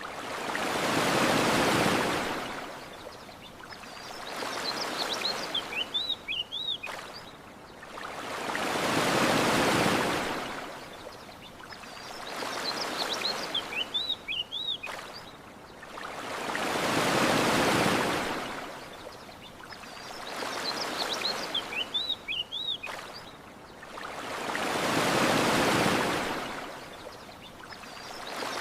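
Ocean waves washing onto a beach in a slow, regular rhythm: a swell about every four seconds, alternating stronger and weaker, with short bird chirps in the lulls between waves.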